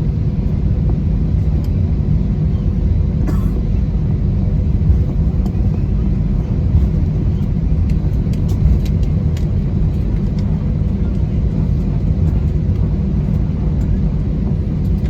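Steady low rumble inside the cabin of an Airbus A320 taxiing, its IAE engines running at low thrust, with a few faint clicks.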